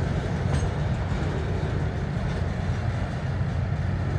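Freight train rolling past slowly, a steady low rumble with a few faint clicks from the wheels.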